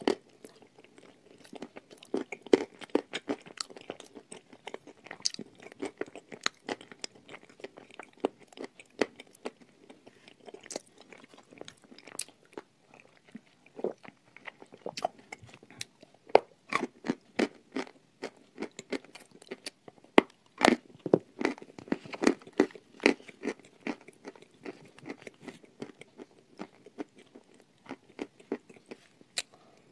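Close-miked chewing of a mouthful of grey chalk paste, with many sharp, irregular crunches and wet mouth clicks throughout. The loudest crunches come about two-thirds of the way through.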